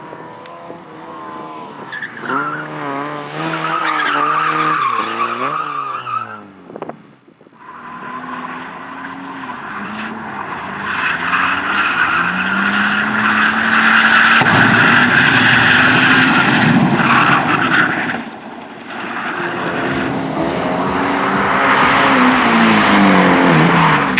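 Race car engines revving hard and shifting gears, the pitch climbing and dropping in steps, with a long stretch of tyres skidding in the middle.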